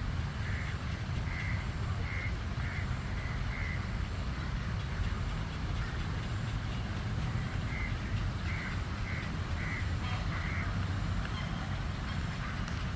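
Asian koel calling: two runs of short, evenly repeated notes, about two a second, the second run starting near the middle. A steady low rumble lies underneath throughout.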